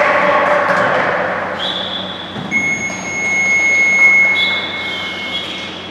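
Long steady electronic buzzer tone lasting about three seconds in a sports hall, with shorter high steady whistle blasts just before it and again overlapping its end, over fading hall noise.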